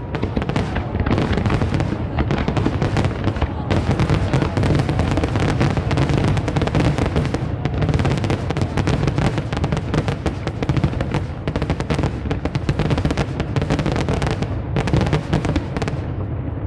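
A fireworks display firing continuously: a rapid, dense string of bangs and crackling over a low rumble, with music playing under it. The crackle thins out near the end.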